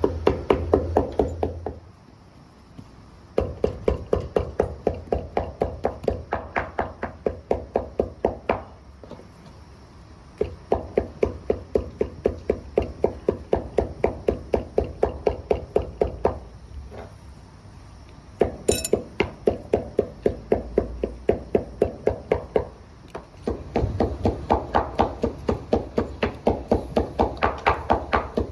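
A knife chopping rapidly on a cutting board, about five strikes a second, in several runs of a few seconds each with short pauses between. A single light clink comes about two-thirds of the way through.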